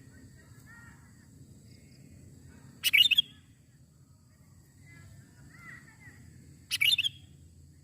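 Sooty-headed bulbul calling: two loud short bursts of quick bubbly notes about four seconds apart, with softer chirps in between.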